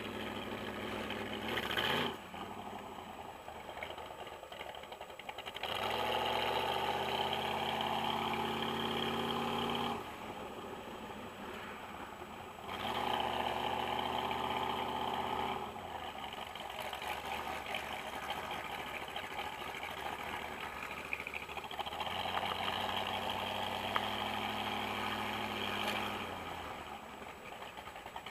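Boss Hoss motorcycle's 8.2-litre V8 engine running on the road. Its note swells louder three times for a few seconds as the rider opens the throttle, and drops back in between.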